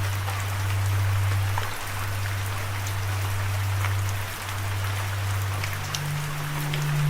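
Steady rain with scattered droplet ticks, over a low held note of ambient music that steps up in pitch near the end.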